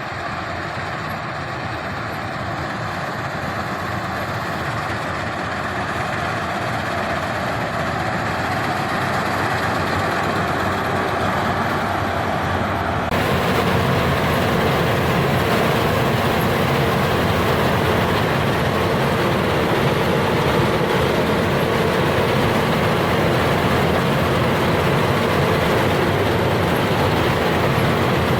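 Combine harvester running steadily, growing louder over the first dozen seconds, then turning abruptly louder and brighter about thirteen seconds in.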